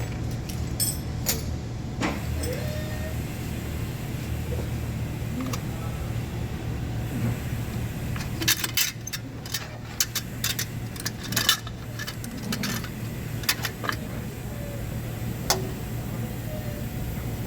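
Sharp metallic clinks of tools and metal parts being handled, a quick cluster about halfway through and a few more later, over a steady low hum.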